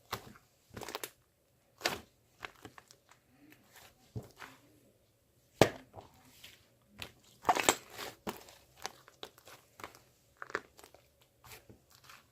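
Irregular crinkling and clicking of small objects being handled, with a few sharper clicks about halfway through.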